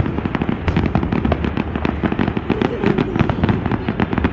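Fireworks display: a dense, continuous barrage of rapid bangs and crackles with no let-up.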